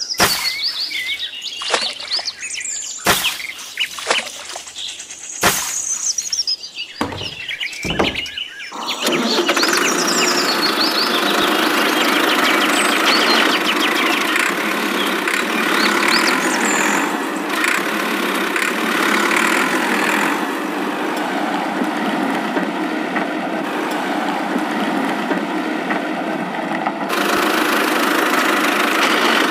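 Birds chirping with a few sharp clicks, then about nine seconds in a steady mechanical running noise starts, like a small motor or engine, and carries on.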